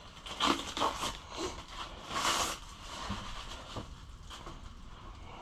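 Plastic dirt-bike body panels being handled and fitted: irregular scraping and rustling with a few light clicks, the loudest scrape about two seconds in.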